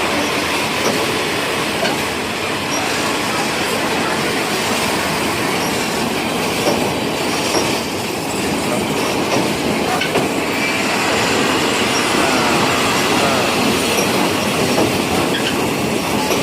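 Train running past close by, a steady heavy rumble and clatter of wheels on the rails, with some wheel squeal on the track.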